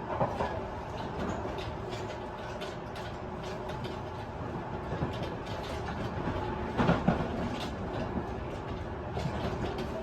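Tobu 50090 series electric commuter train running at speed, heard from inside a motor car: a steady rumble of wheels on rail, with scattered clicks and knocks from the rail joints and the gangway bellows and crossing plates. A louder cluster of knocks comes about seven seconds in.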